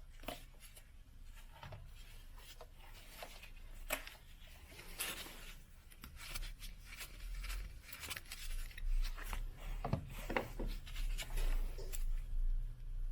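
Irregular clicks and scraping, rubbing handling noises, with a low hum coming in about halfway through.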